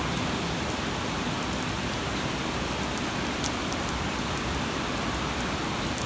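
Steady heavy rain, with scattered sharp ticks of single drops striking close by.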